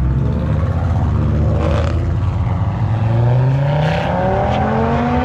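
Car engine accelerating away: it runs steady at first, then from about two seconds in climbs steadily in pitch under hard throttle. A couple of short sharp noises are heard along the way.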